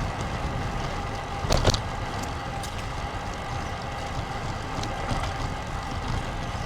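Wind buffeting a camera microphone on a moving bicycle, a steady low rumble, with one sharp clack about a second and a half in.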